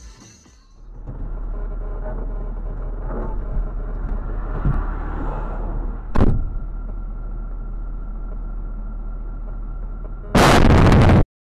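Car road and engine noise heard from inside the car, with a sharp bang about six seconds in and a very loud, distorted burst of noise lasting about a second near the end before the sound cuts off.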